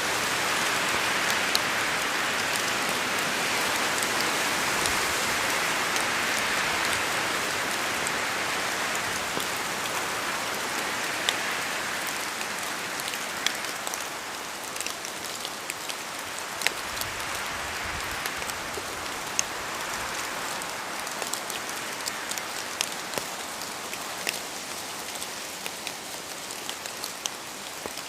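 Steady rain in a forest, with many separate drops tapping sharply as they fall from the trees. The rush swells in the first half and eases slightly after about 13 seconds.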